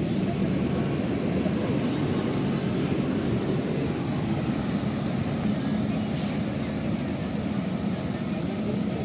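Steady low rumble of floodwater rushing across a road, mixed with a running vehicle engine. Two brief hisses come about three and six seconds in.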